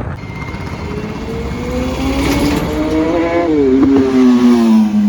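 Motorcycle engine climbing steadily in pitch, then dropping about three and a half seconds in and settling at a lower, steady note.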